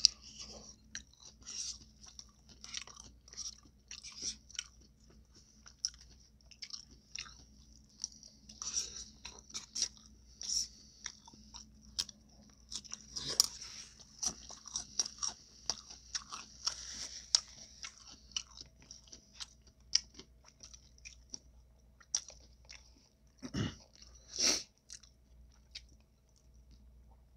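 Close-miked chewing and biting of tacos: a steady run of small crunches and mouth clicks, with two louder bites near the end.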